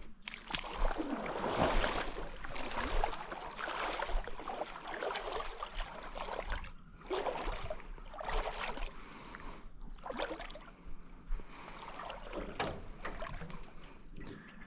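Canoe paddle strokes in lake water: splashing and swishing that comes in uneven surges every second or two, with short lulls between.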